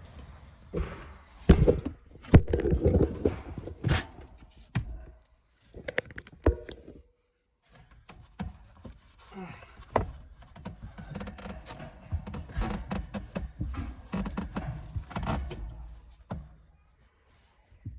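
Irregular knocks, thuds and clatter of hands working with tools and parts, with a brief quiet gap partway through.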